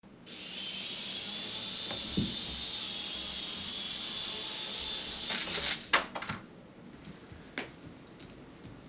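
Mini RC helicopter's small electric motor and rotor running with a steady high-pitched whine for about five seconds, then a quick clatter of knocks as the whine cuts off, followed by one more single click.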